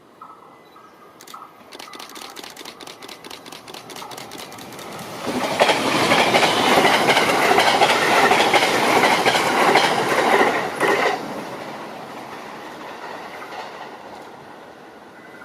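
A train passing by. Its wheels click rhythmically over the rail joints as it approaches; it is loudest for about six seconds, then fades away.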